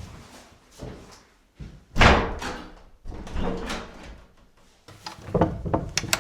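A loud bang about two seconds in that dies away, followed by another knock and a quick run of clicks and knocks near the end.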